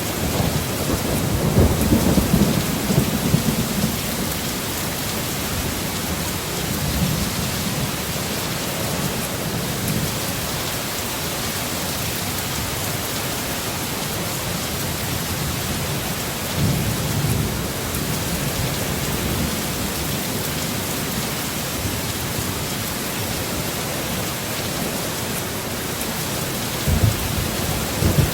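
Heavy steady rain with rolls of thunder: a loud low rumble about a second in lasting a few seconds, then softer rumbles that come and go, and a short sharp crack near the end.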